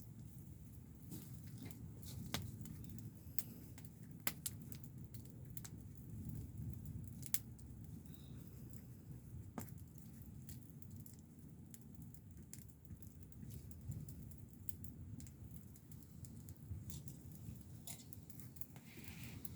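Wood fire crackling: scattered sharp pops and snaps, a few louder ones, over a low steady rumble.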